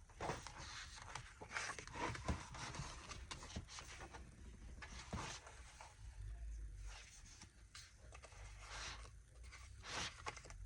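Paper and plastic sticker sheets being handled and shuffled: irregular light rustles and soft clicks.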